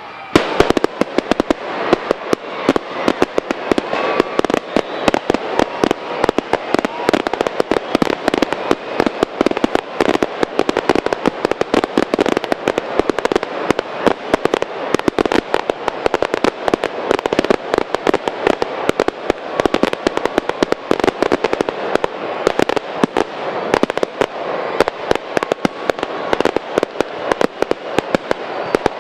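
Fireworks display: a dense, continuous barrage of sharp bangs and crackles, many reports a second, kicking in about half a second in.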